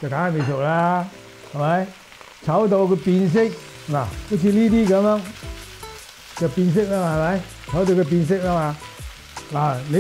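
Bok choy sizzling in a hot oiled wok, with a man talking in Cantonese over it in several short phrases; his voice is the loudest sound.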